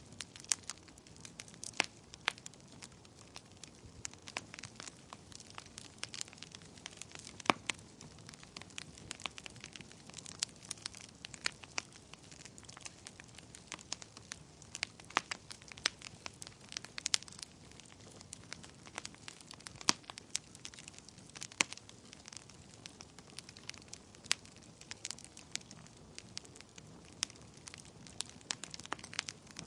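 Wood fire crackling in a fireplace: irregular sharp pops and snaps, several a second, some much louder than the rest, over a low steady hiss of the flames.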